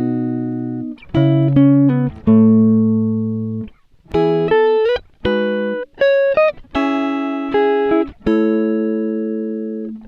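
Background music: a guitar playing slow, ringing single notes and chords, each left to fade, with a few short slides between notes.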